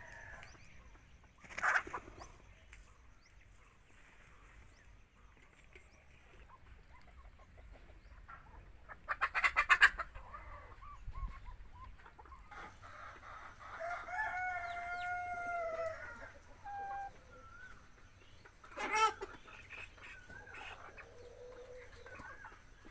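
Farmyard chickens calling at intervals, with a rooster's crow about two-thirds of the way through. A loud, rapid rattling run of calls comes near the middle and is the loudest sound, with short sharp calls about 2 s and 19 s in.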